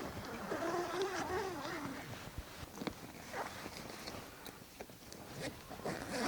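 Rooftop tent being handled and packed away: scattered clicks, knocks and fabric rustling, with a short wavering voice-like sound about half a second in.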